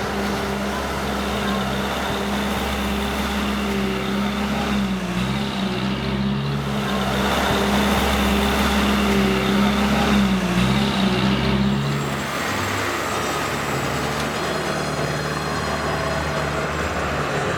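A motor vehicle's engine running with a steady low hum, its note changing about twelve seconds in.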